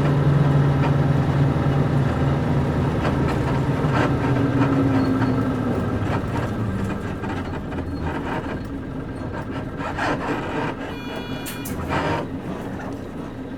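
Nissan Diesel KC-UA460LSN bus heard from inside the cabin while driving, its PG6 diesel engine note fading away partway through as the bus eases off. Creaks and knocks from the leaf-spring suspension and body come through, and a short high beep sounds near the end.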